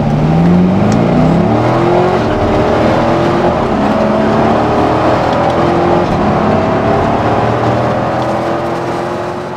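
Car engine revving and accelerating, its pitch climbing steeply in the first second or so and then rising slowly, easing off near the end.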